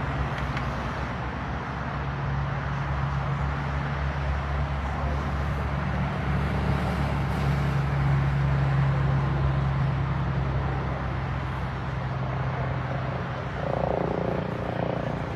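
A vehicle engine running with a steady low hum under a broad rushing noise.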